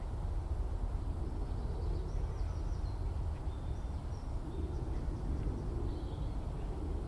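Steady low rumble, with faint, distant skylark song as scattered high twittering notes over it.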